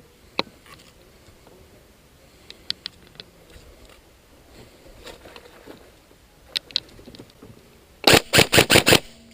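Scattered faint clicks, then near the end a loud burst of full-auto fire from an airsoft electric gun (AEG), about eight rapid shots in a second.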